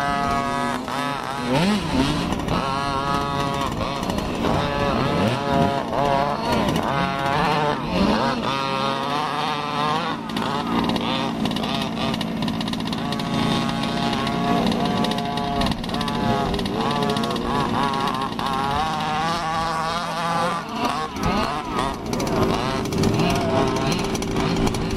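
Small two-stroke engines of large-scale RC cars buzzing and revving up and down, with the pitch constantly rising and falling and several engines overlapping.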